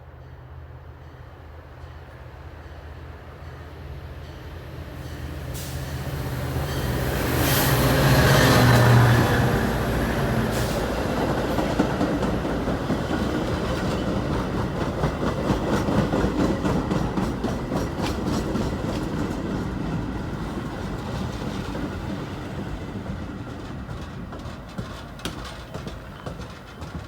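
A train approaching and passing: the locomotive's engine hum builds to a peak about eight or nine seconds in, then the wheels of the passing cars clatter rapidly over the rail joints, fading gradually toward the end.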